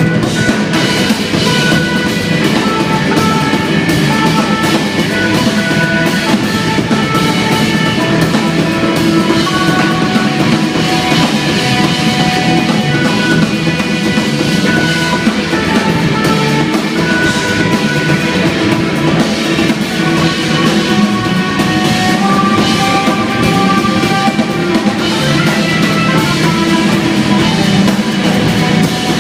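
Live instrumental jazz-rock trio playing loudly: a busy drum kit, electric bass and held keyboard notes that move from pitch to pitch.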